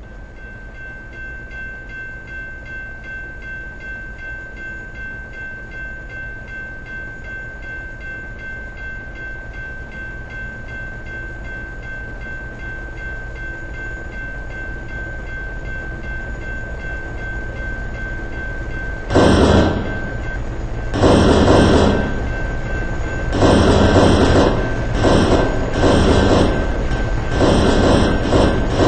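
A diesel-hauled freight train approaching, its low rumble slowly growing louder. From about two-thirds of the way in, the locomotive horn sounds in a series of loud blasts of uneven length with short gaps between them.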